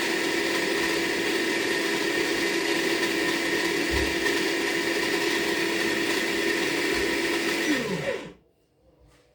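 Small electric motor of a mini foldable washing machine running with a steady hum while washing a load of dish towels. About eight seconds in it stops, its pitch falling as it winds down.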